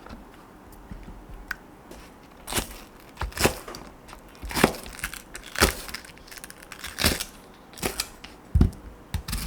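Kitchen knife cutting on a cutting board: separate sharp strokes about once a second, starting a couple of seconds in.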